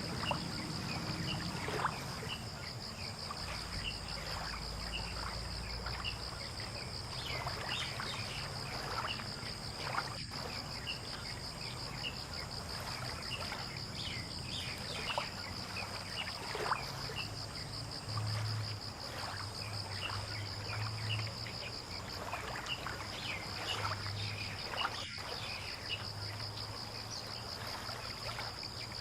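Early-morning ambience: a steady, high, pulsing insect trill, with many short bird chirps over it and a low rumble underneath.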